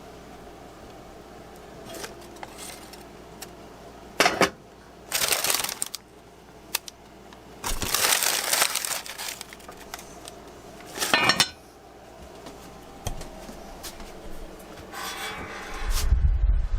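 Kitchen baking work: several short bursts of clattering and rustling, as from handling dishes, pans and wrappers.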